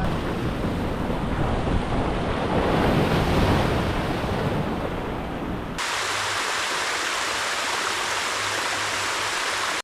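Ocean surf washing on a beach, an even rushing noise. About six seconds in it changes abruptly to a thinner, higher hiss with the low rumble gone.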